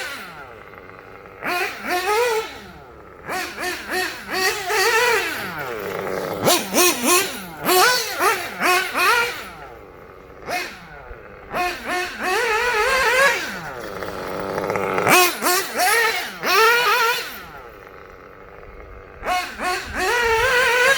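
1/8-scale nitro RC buggy's small glow-fuel engine with a tuned pipe, revving hard in repeated bursts. Its pitch swoops up and down with the throttle and drops back to a lower idle every few seconds.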